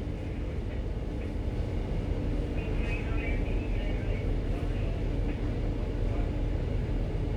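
Steady low rumble of a ship's main engine running at very slow speed during a berthing manoeuvre, with a faint steady hum above it.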